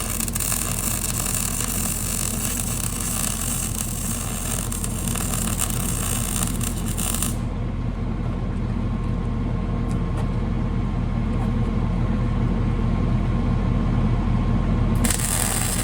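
Engine running steadily at a constant speed, with a low, even hum. A hissing layer above it drops out suddenly about seven seconds in.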